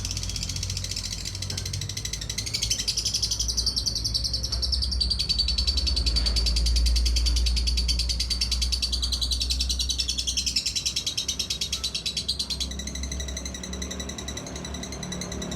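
Lovebird singing one long, unbroken, very fast chattering trill (the 'ngekek' that lovebird keepers prize for its duration), changing to a steadier twittering near the end.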